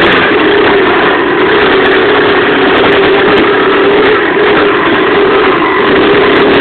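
Pit bike's Loncin single-cylinder four-stroke engine running loud and near-steady, its pitch rising and dipping slightly.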